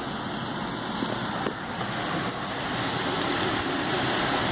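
Steady rushing storm noise of wind and rain, slowly building, with a faint click about a second and a half in.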